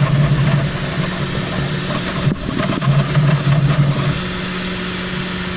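Bambu Lab 3D printer's stepper motors buzzing in surges as the print head makes very fast moves, over a steady fan hum, with a click a little past the middle; about four seconds in the motion eases and only a steadier, quieter hum remains.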